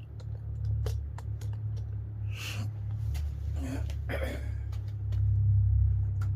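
Wind buffeting the microphone as a low, uneven rumble that swells near the end and then cuts off sharply, with a couple of brief scraping noises midway.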